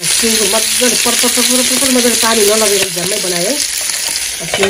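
Food sizzling as it fries in a hot pan, a steady hissing spatter, with a person's voice over it for the first three and a half seconds or so.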